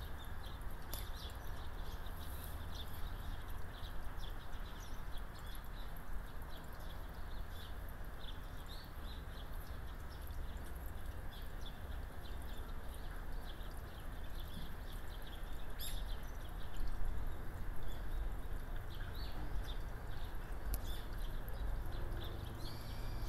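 Small birds chirping on and off, in short high calls scattered throughout, over a steady low outdoor rumble.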